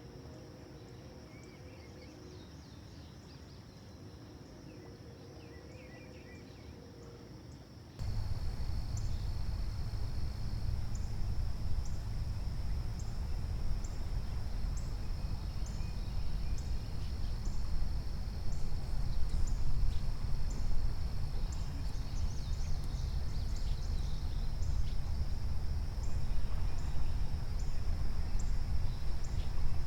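Creekside ambience: a steady high-pitched insect drone with a few faint bird chirps. About eight seconds in it jumps abruptly to a much louder low rumble, with a faint high tick repeating about once a second.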